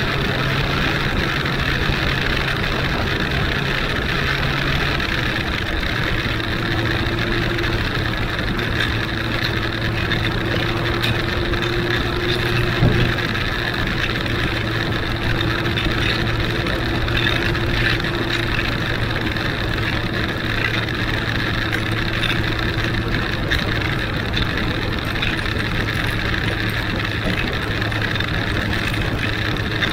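Huanglong 600 motorcycle's inline-four engine running at a steady cruise under a constant rush of wind noise. Its note drops a little about five seconds in, and a single brief knock comes near the middle.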